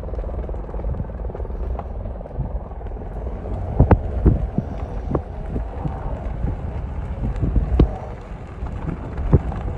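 Helicopter running, a steady low drone from its rotor and engine, with a number of sharp knocks from about four seconds in.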